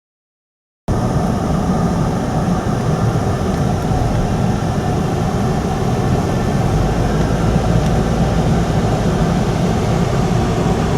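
Steady road and engine noise of a car being driven, heard from inside the cabin, starting abruptly about a second in.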